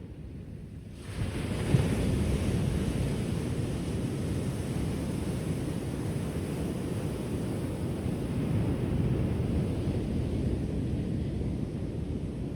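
Ocean surf: a wave breaks a little after a second in, and its rushing wash goes on steadily, with a low rumble underneath.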